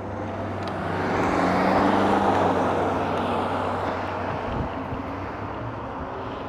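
A car passing, its road noise swelling about a second in and fading away over the next couple of seconds, over the steady low hum of riding.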